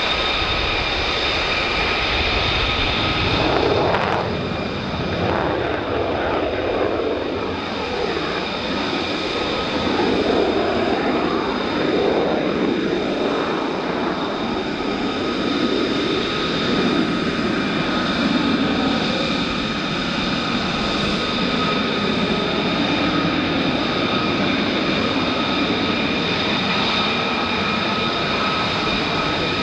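Military jet engine running at a steady power, with a constant high turbine whine over a rumbling exhaust noise that swells and eases a little.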